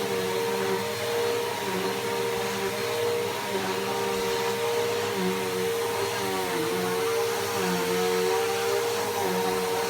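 Bissell PowerForce Helix Turbo upright vacuum cleaner running steadily, its motor pitch dipping briefly a few times.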